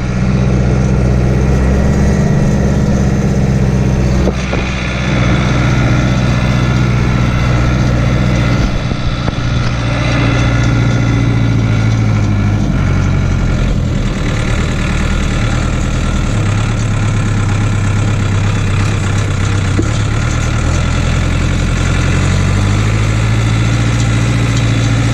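Case JX85 tractor's diesel engine running steadily, its pitch shifting up and down several times as the engine speed changes.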